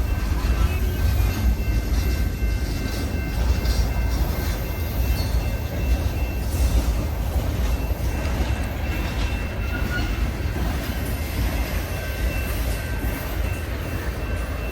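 Long freight train's cars rolling past at steady speed: a continuous low rumble of wheels on rail, with faint steady high-pitched tones above it.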